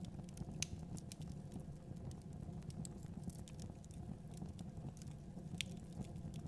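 Fire crackling in a fireplace: irregular small pops and snaps over a steady low rumble of the flames.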